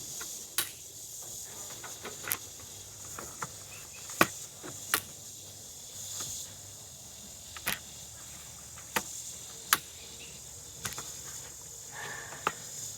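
Sharp clicks and knocks of a camera tripod being adjusted and handled, about eight or nine of them spaced irregularly, over a steady high-pitched chorus of insects.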